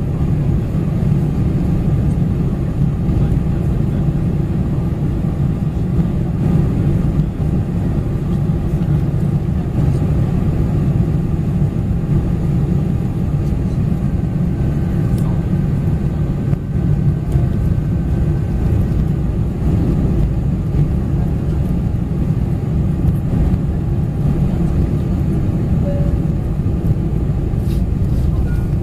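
Steady low rumble of engines and airflow inside the cabin of a Boeing 747-400 in flight, with a few faint steady tones above it.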